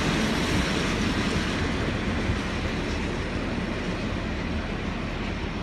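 Freight train of tank wagons rolling away along the track, its steel wheels running on the rails. The noise fades slowly as the last wagon recedes.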